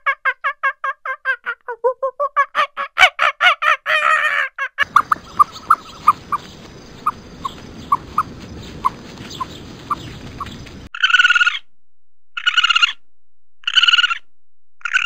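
Animal calls in three runs. First comes a fast series of pitched chattering calls, about four or five a second and quickening before stopping about five seconds in. Next, single high peeps about two a second over a steady hiss. Last, four short harsh calls about a second apart.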